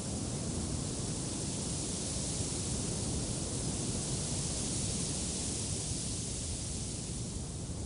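Steady wind, a continuous rushing hiss with a low rumble, swelling a little in the middle and easing near the end.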